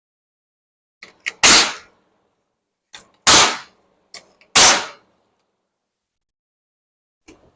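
Nail gun firing three times into framing lumber, each sharp bang preceded by a small click, about a second and a half apart. A faint click near the end.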